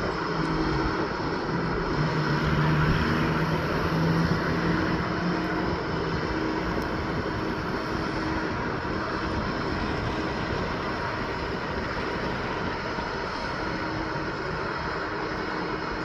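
Heavy truck passing on the road: steady engine drone and tyre noise, loudest a few seconds in as it comes closest.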